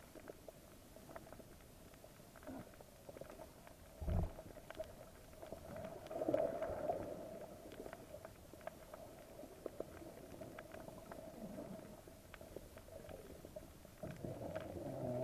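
Muffled, water-filled sound of a camera in a waterproof housing: a steady faint hum with scattered crackling clicks, a low thump about four seconds in, and louder gurgling swells around six seconds and again near the end.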